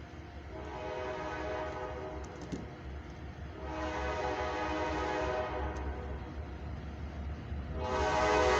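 Freight locomotive air horn blowing three long blasts for a grade crossing, each a chord of several tones and each louder than the last as the train approaches; the third begins near the end.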